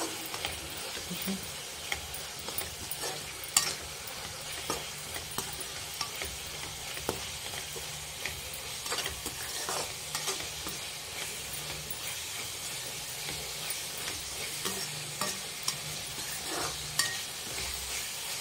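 Minced meat (kheema) frying in a kadai with dry spices, sizzling steadily while a metal spatula stirs it, with scattered scrapes and clicks against the pan.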